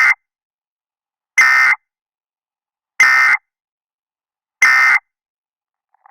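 Electronic alert tone beeping four times, evenly spaced about a second and a half apart, each beep short and high-pitched. It is the kind of alarm that comes just before an emergency weather warning is read.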